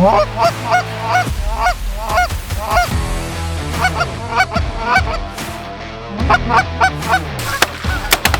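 Goose honking: a rapid series of short honks, each sliding upward in pitch, two or three a second, in runs broken by brief pauses. A few sharp clicks come near the end.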